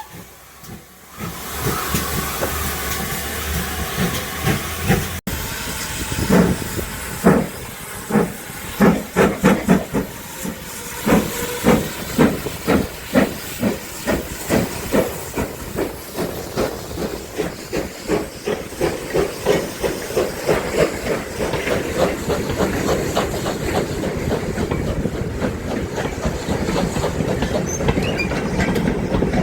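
Steam locomotive starting away: steam hissing, then exhaust chuffs begin about six seconds in, slow at first and quickening steadily as the engine gathers speed.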